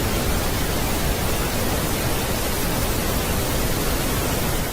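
The space 'moon sound' for Uranus's moon Sycorax: a steady, even hiss like radio static.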